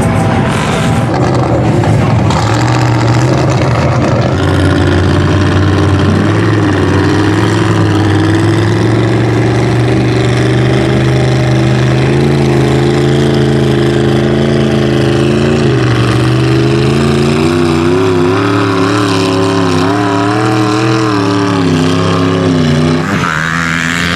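Loud truck engine running hard at high revs. Its pitch holds steady at first, then wavers up and down in the second half and drops away near the end.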